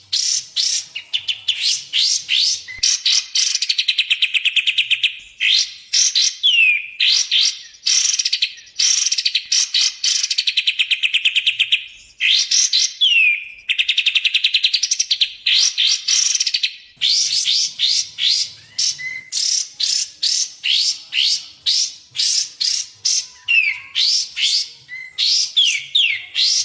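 Recorded song of Kapas Tembak and Cucak Jenggot songbirds, played as masteran training audio for cage birds. It is a fast run of loud, high, downward-sweeping notes, broken by several long rapid trills.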